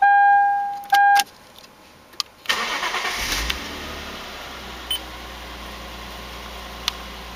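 A loud electronic chime sounds twice, one long fading tone and then a short one. About two and a half seconds in, the Toyota Altezza's 1G-FE two-litre straight-six is cranked and catches, flares briefly and settles into a steady idle.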